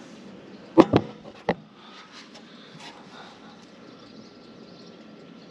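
Three sharp knocks close together about a second in, over a steady low background hum.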